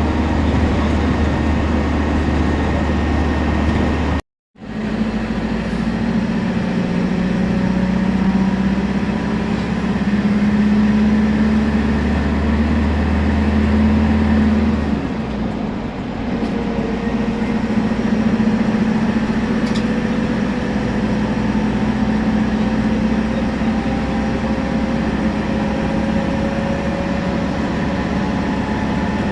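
Temsa Prestij SX midibus driving, its diesel engine running under a steady low drone with a faint whine that slowly rises in pitch, as from the turbo and differential. The sound cuts out briefly about four seconds in, and the low drone eases about halfway through.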